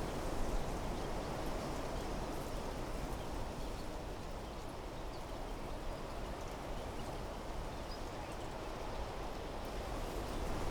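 Wind blowing through trees, a steady rushing of foliage with a low rumble.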